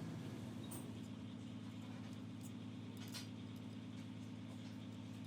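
Steady low mechanical hum, with a few faint light clicks about a second in and again about three seconds in.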